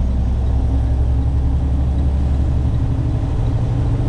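Tractor-trailer's diesel engine running steadily with road noise, heard from inside the cab while driving.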